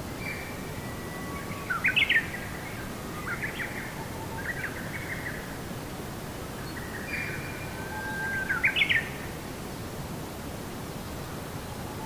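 A songbird singing two phrases, each a held whistle followed by quick rising notes that end loudest, over a steady background hiss.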